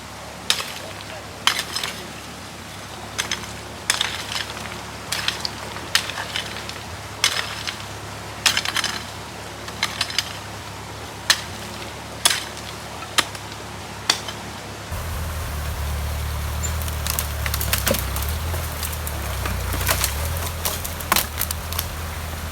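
Repeated sharp scrapes and knocks, about one a second, of shovels digging into flood-deposited rocks and gravel. About two-thirds of the way through, a steady low rumble joins them.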